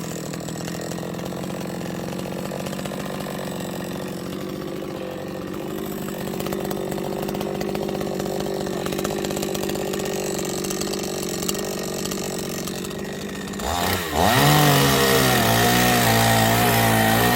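Chainsaw engine idling steadily, then revved up to a loud high-speed run about fourteen seconds in.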